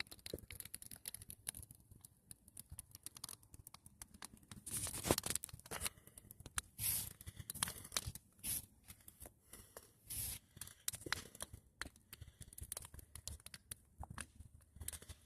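Pruned tree branches burning in a bonfire, crackling and popping irregularly, with a few louder pops about five and seven seconds in.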